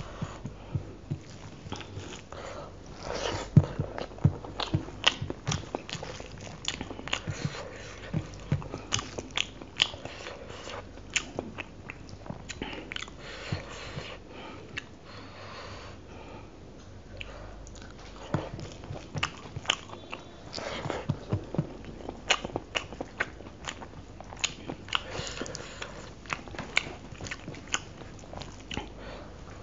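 Close-miked wet chewing and lip smacking of rice and chicken curry eaten by hand, with many quick irregular clicks, and the soft squish of fingers kneading rice into curry on a steel plate.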